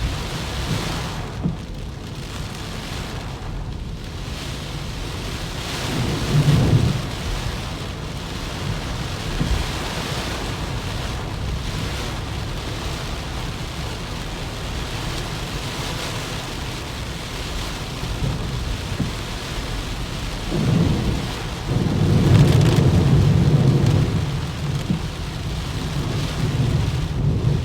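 Heavy typhoon rain pouring down steadily, with deep rumbles about six seconds in and again for several seconds near the end.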